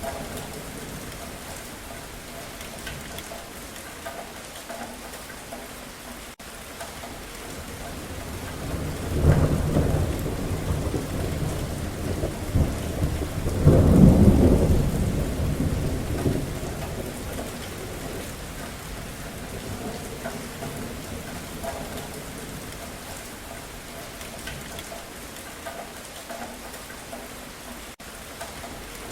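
Steady rain falling with two rolls of thunder, one about nine seconds in and a louder one about fourteen seconds in, each rumbling for a couple of seconds.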